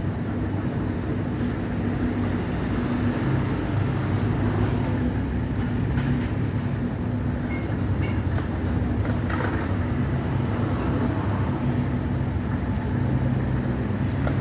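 A steady low machine drone, a motor or engine running constantly with a low hum and no change in pitch.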